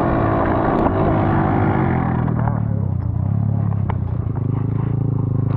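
Dirt bike engine coming off the throttle, its pitch falling over the first two seconds, then settling to a steady idle, with a couple of sharp clicks in the second half.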